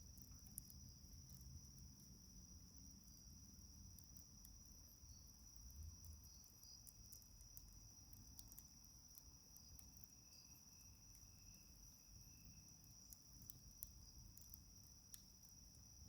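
Faint, steady high-pitched chirring of a night insect chorus, with a second, fainter steady trill lower down. Sparse small clicks of a wood fire crackling sound over it.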